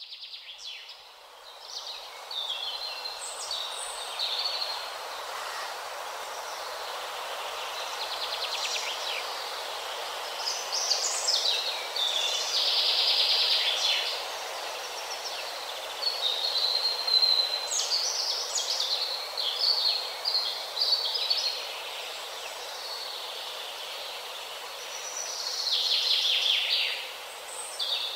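Small birds chirping and trilling in overlapping songs over a steady background hiss, with louder trilled phrases about halfway through and again near the end.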